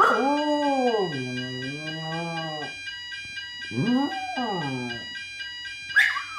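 A Jack Russell terrier howls along to a fire alarm during an alarm test, the alarm sounding a steady pulsing electronic tone. Two long howls rise and fall in pitch, then a third begins with a high yelp near the end.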